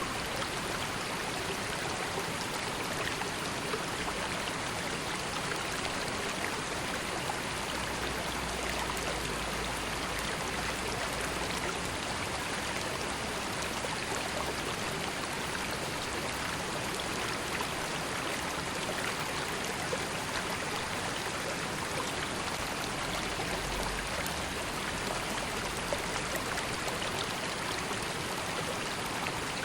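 River water flowing steadily over stones, a constant rushing and babbling with many small splashes.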